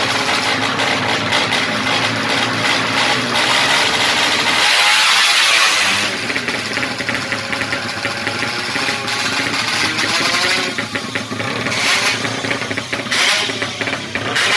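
Yamaha MX King motorcycle engine, fuel-injected and enlarged to 200cc, running through an HO2 racing exhaust and being revved. Its pitch rises and falls repeatedly.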